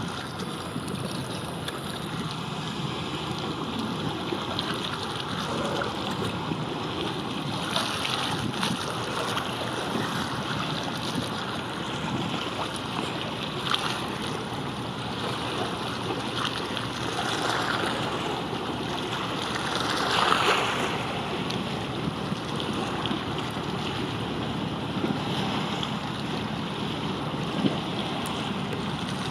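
Steady outdoor wind and water noise, with a broad swell in loudness about twenty seconds in and a few faint clicks.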